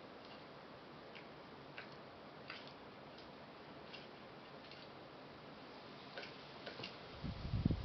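Faint, irregular sharp taps from a blue jay pecking at seeds on a bird feeder, several seconds apart at first and then closer together. Near the end come a few louder low thumps.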